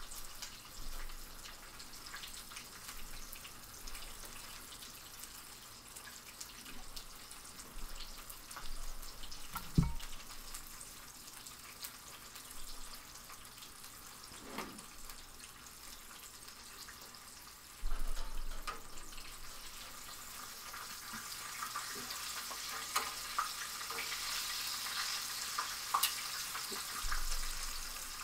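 Chicken tenders frying in canola oil in a pan on the stove, sizzling and crackling, louder in the second half. A sharp knock about ten seconds in and some clattering a few seconds later.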